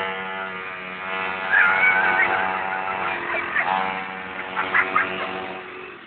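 Mini bike's small engine running at a steady speed, easing off near the end. A high-pitched voice cries out briefly about a second and a half in.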